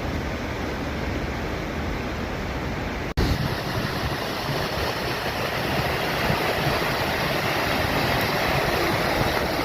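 Steady rush of a waterfall, with a brief break about three seconds in, after which the water sounds a little louder.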